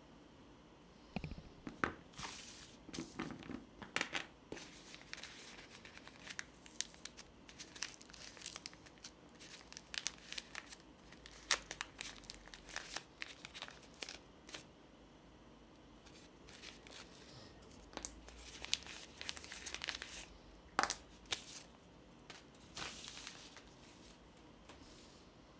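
Packaging being handled and opened: irregular crinkling and tearing with many small sharp clicks, on and off throughout.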